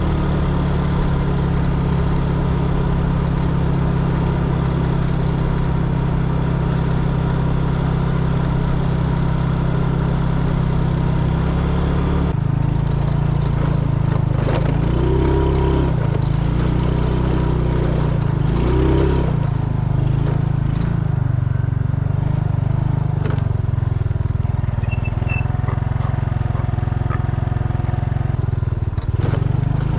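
Motorcycle engine running steadily while riding. Its note changes about twelve seconds in, followed by a few short rises and falls in revs.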